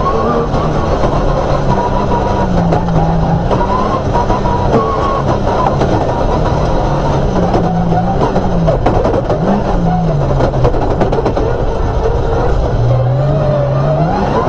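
Off-road rally car's engine running hard, its pitch rising and falling several times, with music in the background.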